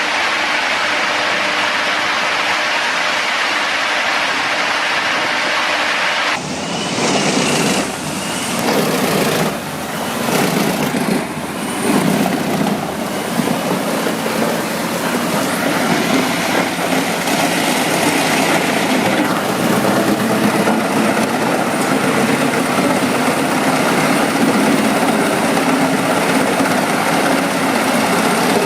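Large wood chipper running loud, with uneven surges as material is fed through it. The sound changes abruptly about six seconds in, to a different, denser machine noise.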